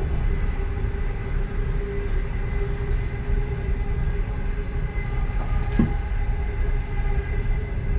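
Passenger train running on the rails, heard from inside its last car: a steady low rumble with a constant hum, and one brief sharp sound just before six seconds in.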